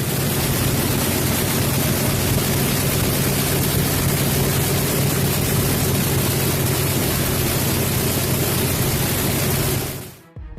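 Pratt & Whitney R-2800 Double Wasp 18-cylinder air-cooled radial aircraft engine running steadily, a dense loud noise over a steady low drone, which cuts off sharply near the end.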